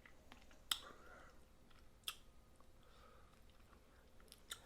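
Faint eating sounds of a person working through snow crab: three sharp clicks spread over a few seconds, with soft chewing between them.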